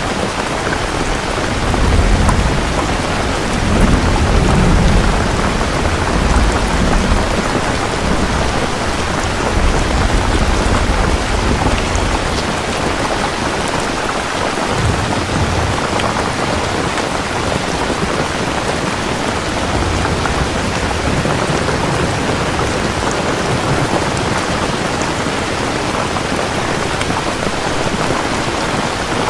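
Steady heavy rain, with rolling thunder rumbling low in the first half, loudest a few seconds in, and fainter rumbles later.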